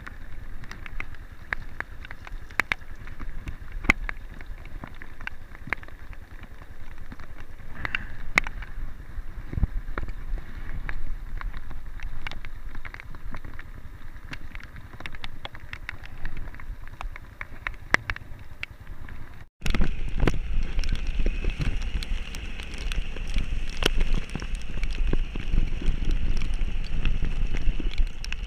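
A vehicle running on a rainy mountain road, with wind buffeting the microphone and scattered sharp taps and clicks. The sound breaks off abruptly about two-thirds of the way through and comes back louder.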